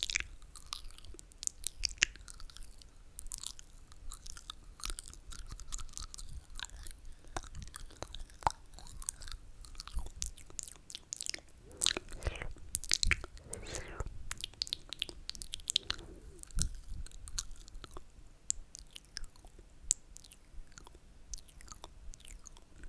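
ASMR mouth sounds close to the microphone: wet slurping, lip smacks and tongue clicks, irregular and continuous, with a few longer sucking slurps near the middle.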